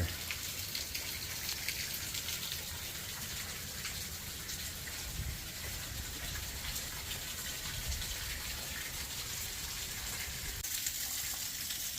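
Steady rush of running water from a small woodland stream or waterfall.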